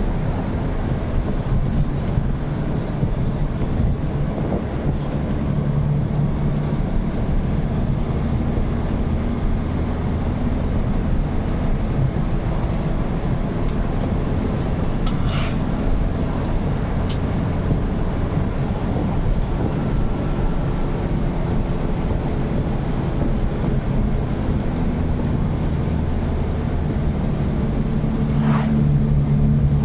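Old Suzuki Katana being driven: its engine runs steadily under road noise, the engine note shifting a few times as the speed changes. Two brief higher-pitched sounds come about halfway through and again near the end.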